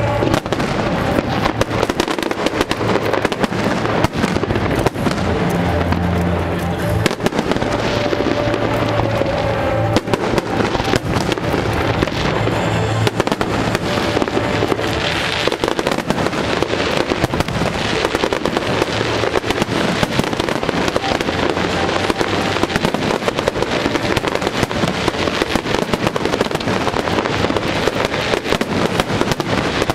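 Aerial fireworks bursting in rapid, overlapping succession: a dense, continuous run of bangs and crackles with no pauses. Music plays along, with held notes clearest in the first half.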